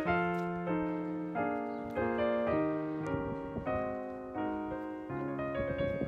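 Background music: a piano playing a slow melody over low sustained notes, each note struck and fading.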